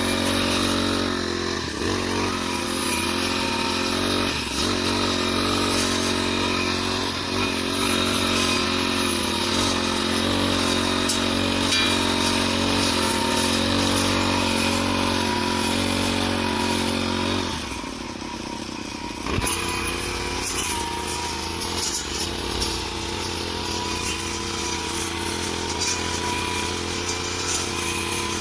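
Small petrol engine of a grass-cutting machine running steadily at high speed. About 17 seconds in it drops off for a moment, then picks back up and runs on a little lower with brief uneven peaks.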